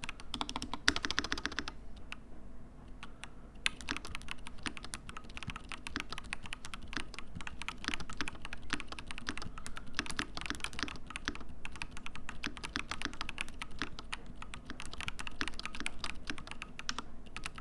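Typing on a custom mechanical keyboard with lubed Holy Panda tactile switches in an aluminium case with a brass plate. A quick dense flurry of keystrokes about a second in, a short sparse lull, then steady continuous typing.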